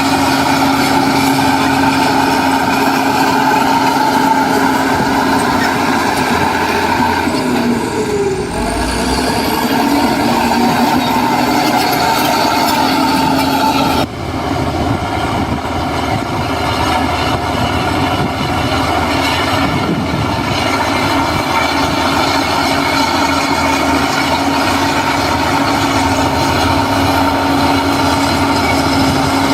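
Diesel engine of a heavy earthmoving machine running steadily, with a constant engine tone. The sound breaks off sharply and resumes about halfway through.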